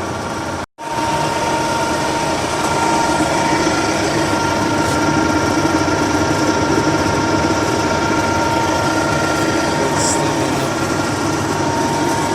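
1M63 heavy lathe running under power: a steady mechanical hum from the gearbox and drive with a high, steady whine over it. The sound cuts out for an instant under a second in, then carries on slightly louder.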